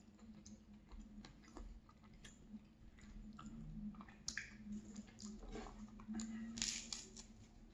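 Close-up chewing and wet mouth smacks of someone eating a mouthful of tomato-sauce pasta, with scattered small clicks over a faint steady hum. A louder crackly burst comes near the end.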